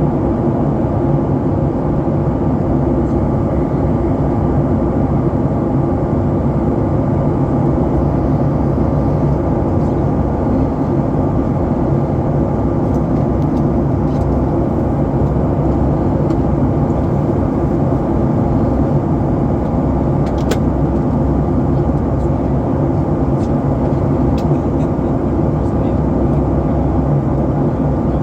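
Steady drone of an airliner cabin in flight: engine and airflow noise, even throughout, with a faint click about twenty seconds in.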